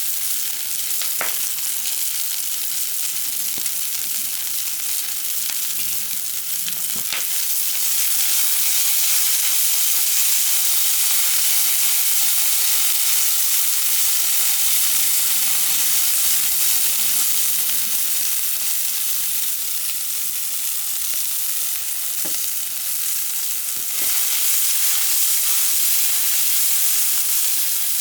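Food frying in a pan, a steady sizzle with a few sharp clicks; the sizzle grows louder about eight seconds in.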